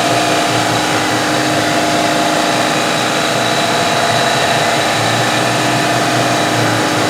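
Shop air compressor running steadily, cycling to refill its tank from 90 to 120 psi, over a CNC mill spindle turning a 3/8 inch single-flute thread mill as it cuts M18 x 1 threads. The machinery makes an even hum with a few constant tones.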